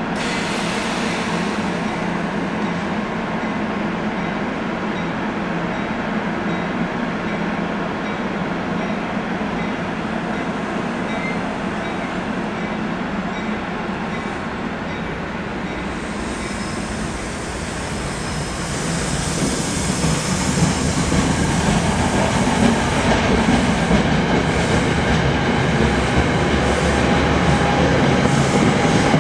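Electric passenger trains on the rails: an NJ Transit commuter train rolling through the station with a steady rumble. Just past halfway the rush of an Acela Express high-speed train passing at speed comes in, growing louder and hissier with rail clatter.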